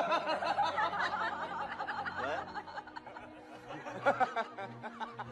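People laughing: runs of quick pitched laugh pulses, loudest at the start and again about four seconds in.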